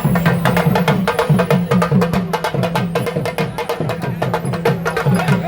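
Traditional drums played by a percussion group: fast, dense strokes in a steady, driving rhythm.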